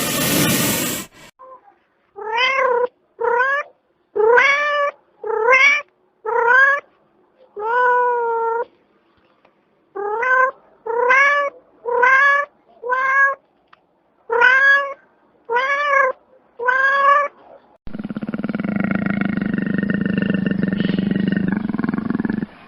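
A domestic cat meowing over and over: about thirteen short meows, each rising and then falling in pitch, with pauses between them. A brief burst of noise comes just before them, and a harsh, steady, rumbling sound follows from about eighteen seconds in.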